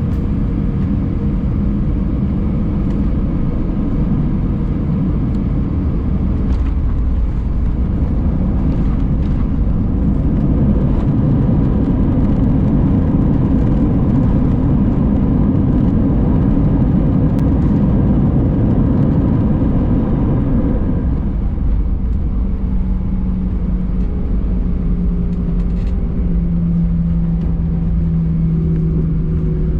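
Airbus A319 cabin noise around landing: a loud, steady rumble that eases about two-thirds of the way through, leaving a lower engine hum with a steady tone.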